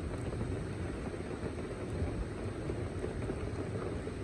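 Rainstorm noise: a steady, low, dull rush of rain and wind with no distinct drops or gusts.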